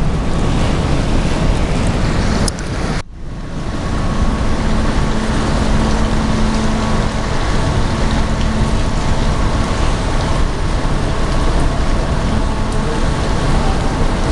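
Wind rushing over the microphone on a moving cruise ship, over the ship's steady low engine drone with a faint hum. The sound briefly cuts out about three seconds in and comes back.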